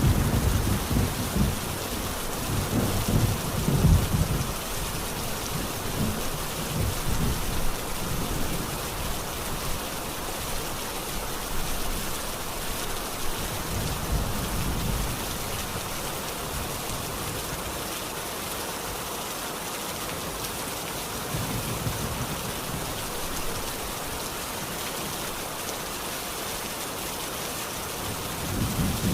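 Steady rain falling, with low rolls of thunder rumbling under it: strongest in the first few seconds, softer rolls around the middle, and another building at the very end.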